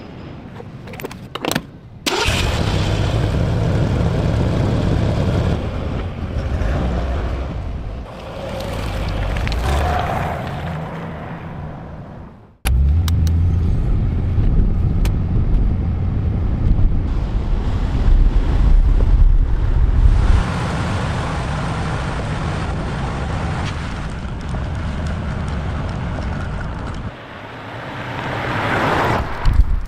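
Car engine running as the car drives, across several shots that cut abruptly from one to the next.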